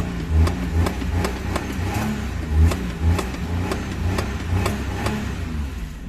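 Maruti 800's three-cylinder petrol engine running and being revved with the accelerator in short blips, its pitch rising and falling, with a regular ticking about twice a second.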